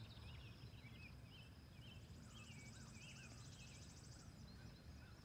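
Faint bird chirps, short wavering calls repeated throughout, with a fast high trill from about two seconds in lasting a couple of seconds, over a low steady rumble.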